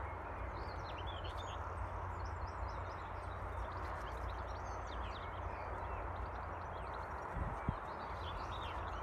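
Small birds singing and chirping throughout, over a steady low rumbling noise, with a single knock about seven and a half seconds in.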